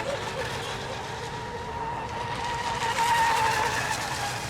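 Radio-controlled race boat engines whining at high revs during a heat, one growing louder about three seconds in and then dropping slightly in pitch as it passes.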